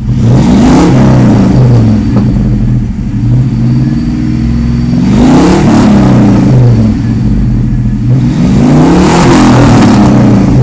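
1997 Ford Explorer engine through a straight-piped exhaust, revved three times from idle, the pitch climbing and falling back each time.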